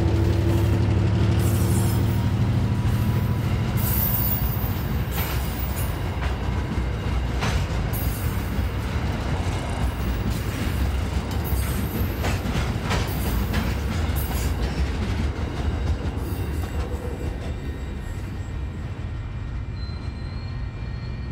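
Empty ballast hopper wagons of a freight train rolling past on the rails: a steady low rumble with sharp wheel clicks over the rail joints and now and then a thin squeal. The sound fades away as the last wagons go by.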